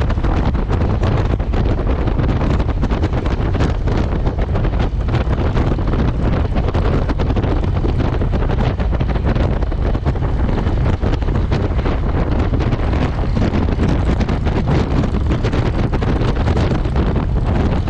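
Wind buffeting the microphone on a moving motorcycle, a steady loud rush mixed with engine and road noise.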